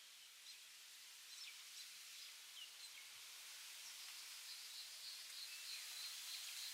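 Faint high bird chirps over a steady outdoor hiss: scattered short gliding chirps at first, then from a few seconds in a regular run of chirps at about four a second.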